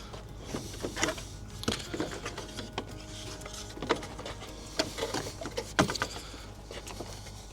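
Irregular light clicks and knocks, a few sharper than the rest, over a low steady hum.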